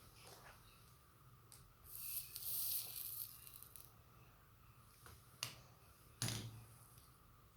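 Soldering on a charger circuit board: a crackling hiss of hot flux lasting about two seconds, then two sharp clicks of the iron or tweezers against the board.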